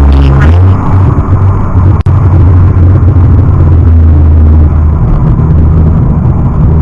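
Loud, steady low rumble of a vehicle driving, with a sharp click and momentary dropout about two seconds in.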